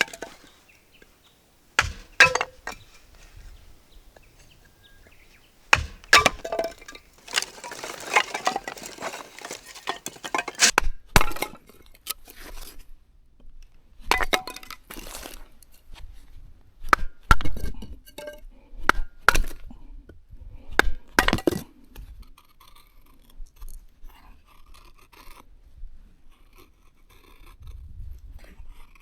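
Hard objects being handled: a series of sharp clinks and knocks, some ringing briefly, with a stretch of rustling and scraping about a third of the way in.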